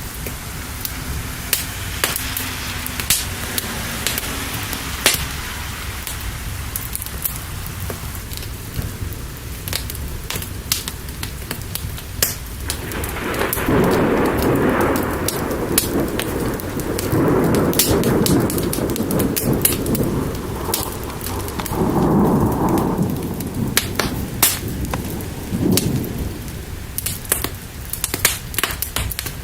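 Steady rain with a fire crackling and popping throughout. About halfway in, a long rolling rumble of thunder swells and dies away over roughly ten seconds.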